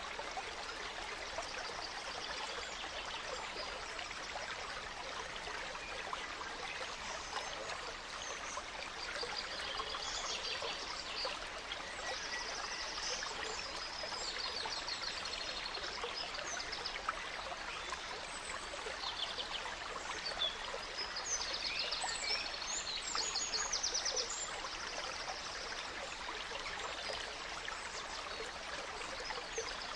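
Small stream running steadily, with songbirds chirping and trilling over it, the calls busiest around a third of the way in and again after the middle.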